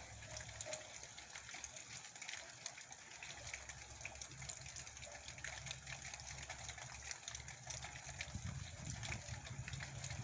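Heavy rain falling, a dense patter of countless drops, with a low rumble underneath that swells about eight seconds in.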